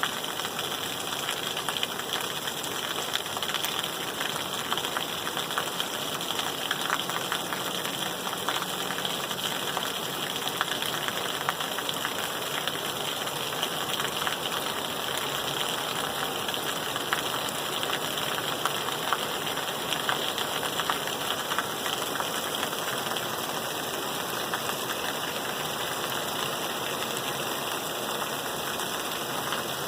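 Steady rain falling: a dense, even hiss laced with many small, close-set drop impacts.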